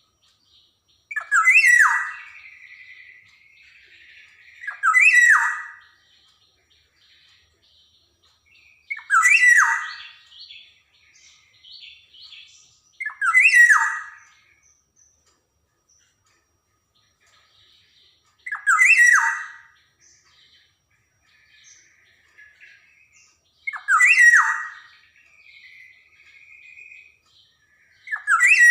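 Black-naped oriole (kepodang) calling: seven loud, short calls a few seconds apart, each falling in pitch, with softer chattering notes between them.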